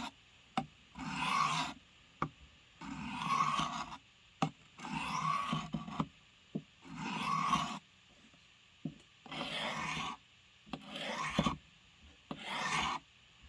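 A blade being sharpened by hand: about seven separate strokes of the edge along an abrasive, each under a second and spaced roughly a second and a half apart, with light clicks between strokes.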